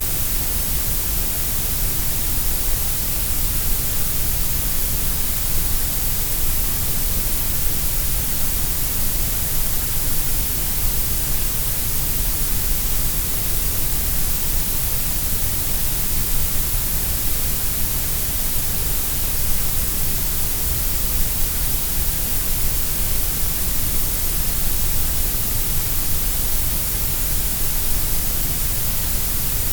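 Grey noise: a steady, unbroken hiss, fuller in the deep lows and the highs than in the middle.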